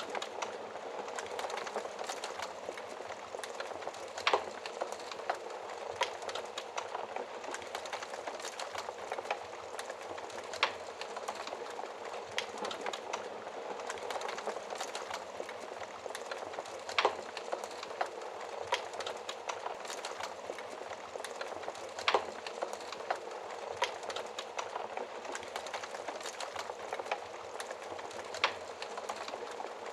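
Wood fire burning in a fireplace: a steady hiss with frequent sharp crackles and pops, and a few louder snaps scattered through.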